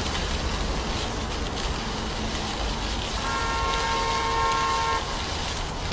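A vehicle horn sounds one steady blast of nearly two seconds, starting about halfway through, over loud, constant wind and road noise.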